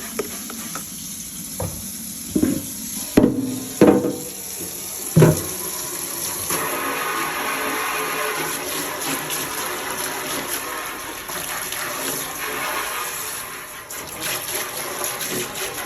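Water running from a kitchen tap into a sink, with several sharp knocks of items being handled in the first five seconds, then a steady stream of water.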